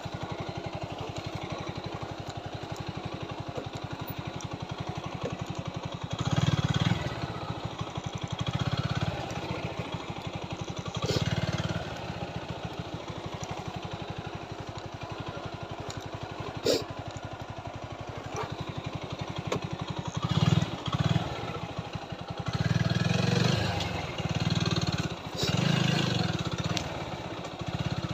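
Single-cylinder TVS Apache 4V motorcycle engine running under way, its note swelling louder several times as the rider opens the throttle. One sharp knock comes about two-thirds of the way through.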